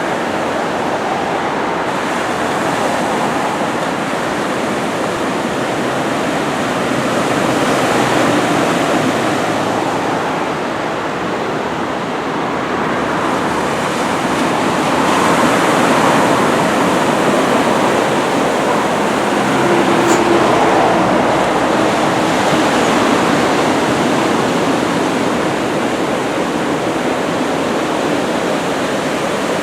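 Heavy ocean surf from typhoon swell, a steady wash of breaking waves that swells louder every several seconds.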